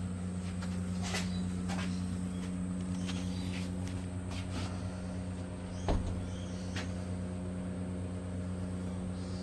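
A steady low electric hum with a few light knocks and taps; the loudest knock comes about six seconds in.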